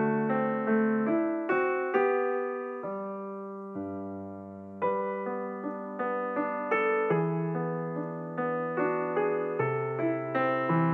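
Background piano music: a gentle melody of single notes over held chords, thinning to a long sustained chord near the middle.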